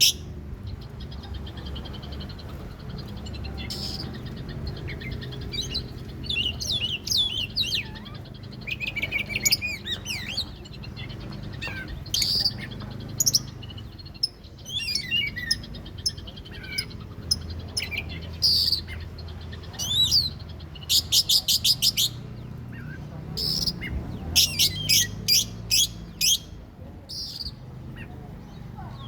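Oriental magpie-robin (kacer) singing: a varied run of whistles, slurred chirps and bursts of rapid repeated notes. This is the excited song played as a lure to provoke another kacer. A steady low hum runs underneath.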